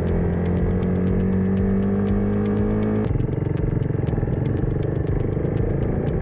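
Motorcycle engine running under way, its pitch climbing steadily as it gathers speed. About halfway through, the sound switches abruptly to a lower, rougher engine note.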